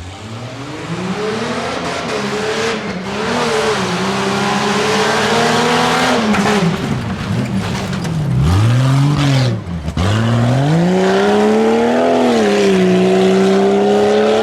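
A four-wheel-drive tuff truck's engine revs hard through an off-road obstacle course, its pitch rising and falling. About eight seconds in, the revs drop sharply twice, then climb back and hold high near the end.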